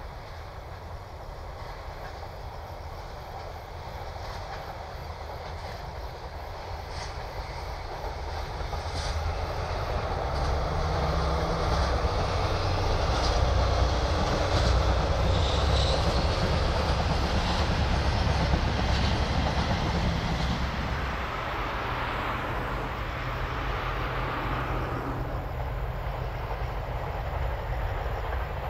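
DD51 diesel-hydraulic locomotive approaching with its engines running, growing louder, then passing about twenty seconds in with a drop in engine pitch, followed by freight wagons rolling by.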